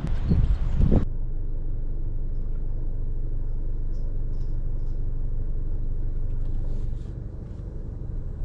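Steady low rumble of a car driving along, starting with a sudden cut from wind noise about a second in.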